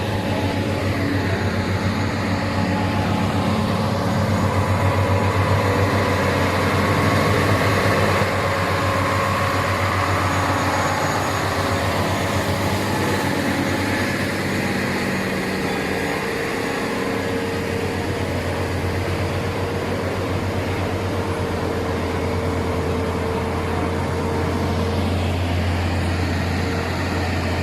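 Heavy truck's diesel engine pulling steadily up a steep climb, a continuous deep drone.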